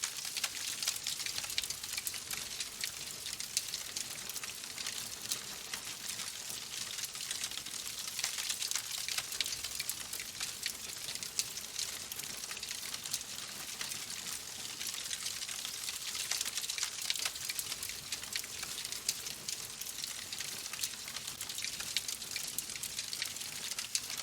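Wood fire crackling in a fireplace: a steady hiss with a constant scatter of small sharp pops and snaps.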